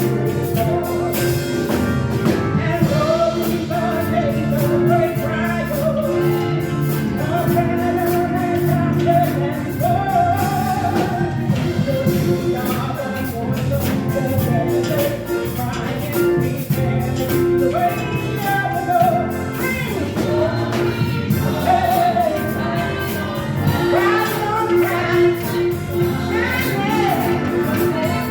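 Live praise-and-worship music: a church band playing with a steady drum beat while singers carry the melody.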